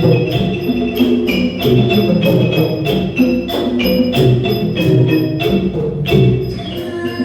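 Thai traditional ensemble music, a fast run of xylophone-like mallet notes over a steady beat of sharp strikes.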